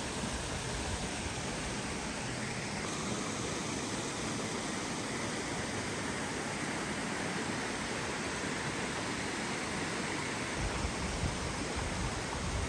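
Steady rush of running water from a mountain stream and waterfall. A low rumble comes in about two seconds before the end.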